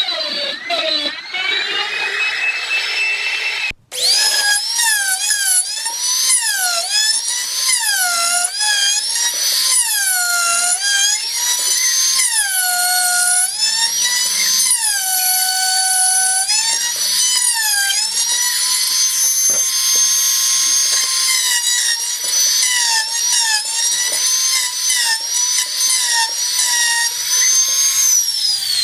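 Small high-speed electric power tool motor whining, its pitch dipping and recovering again and again, with a brief break just before four seconds in and the motor winding down at the very end.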